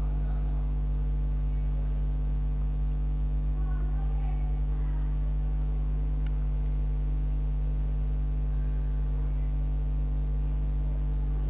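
Steady electrical mains hum with a stack of buzzing overtones, and faint indistinct sounds beneath it.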